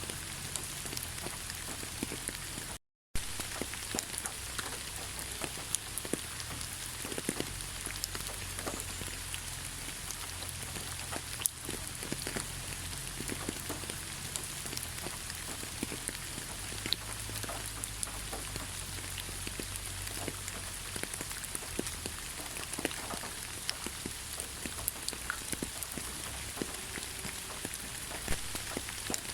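Steady rain falling, with many scattered drop ticks over an even hiss and a low rumble. The sound cuts out completely for a moment about three seconds in.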